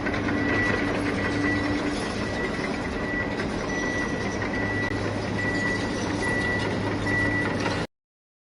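Truck engine noise with a reversing beeper sounding in a steady run of repeated high beeps. It cuts off suddenly near the end.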